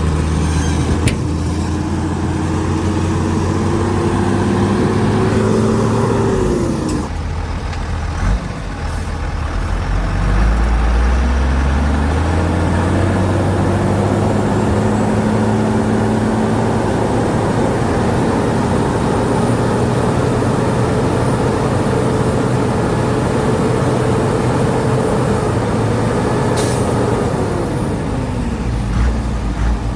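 Heavy diesel engine of earthmoving machinery working. Its pitch drops away about a quarter of the way in, climbs again and holds steady, then winds down near the end, with a brief hiss just before.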